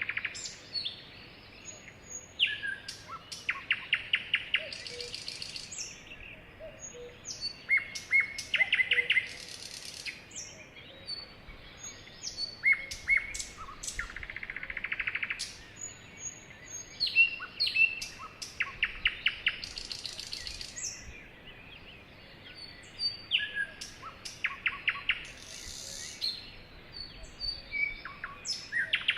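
Sparrow singing: the same short song phrase, a few clear notes running into a fast trill and a high buzzy note, repeated about every five seconds.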